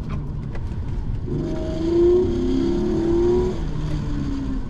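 Hyundai Genesis Coupe 3.8's V6 engine pulling under hard acceleration, heard from inside the car. The revs climb for about two seconds and then drop back, over a steady rumble of road and tyre noise.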